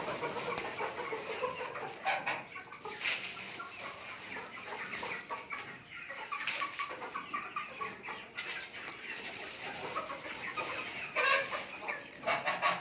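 Chickens clucking, many short overlapping calls with a few louder ones near the end.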